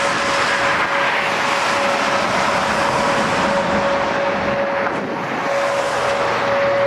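Strong wind roaring across the microphone, with a steady mid-pitched tone that swells and fades throughout.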